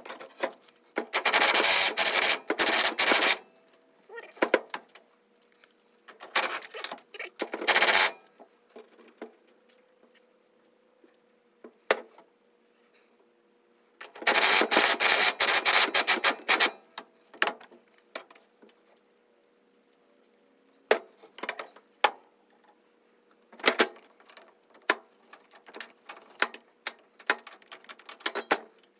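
Metal hand tools clicking and rattling in four bursts of rapid clicks a few seconds long, with single clicks and knocks between them.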